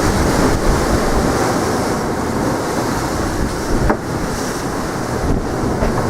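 Strong wind buffeting the microphone with sea surf washing beneath it, a steady rumbling noise, and a brief knock about four seconds in.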